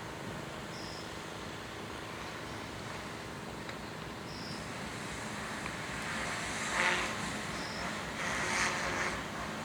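Steady background of traffic and outdoor hum, with road traffic passing that swells louder twice in the second half. A faint short high chirp repeats every three to four seconds.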